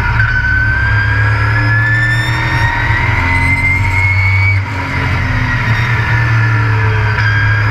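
Race truck engine heard on board under power, its pitch climbing steadily for about four and a half seconds. It lifts off briefly, then climbs again near the end, over a heavy low rumble.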